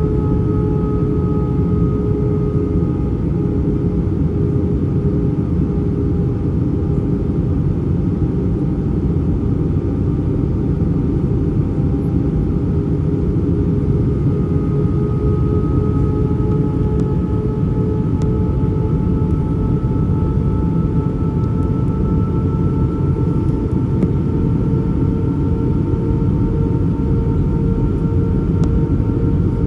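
Airbus A320 cabin noise in flight: a steady rumble of airflow and engines, with a few steady engine whine tones that slowly drift in pitch.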